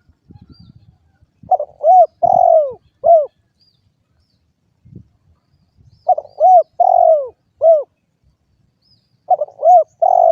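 Spotted dove cooing: three phrases of about four low coos each, repeated every three to four seconds.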